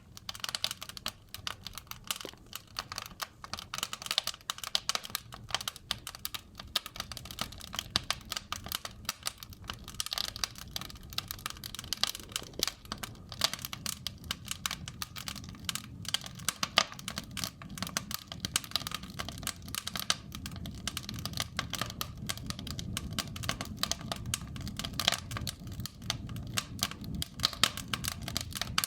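Wood fire burning in a fireplace, crackling with dense, irregular pops and snaps over a low rumble.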